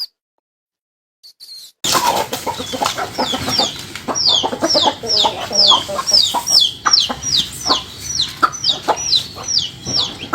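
Chickens clucking, with a steady run of high, falling peeping calls about two to three a second. It starts suddenly about two seconds in after a silence.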